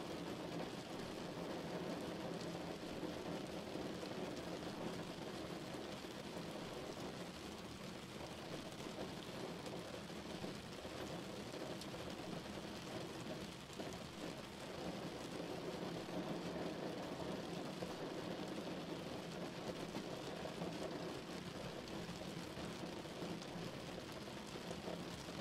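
Steady rain heard from behind a window: an even, unbroken rushing hiss, with a low rumble of street traffic mixed in beneath it.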